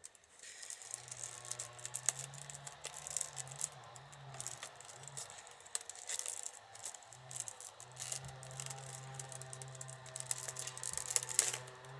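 Wicker rods crackling and creaking in quick irregular clicks as a soaked rod is woven through a basket, over a low steady hum that breaks off briefly midway.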